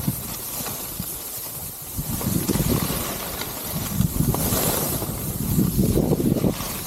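Wind buffeting the microphone in uneven low gusts over a steady high hiss, as when skiing downhill with the camera.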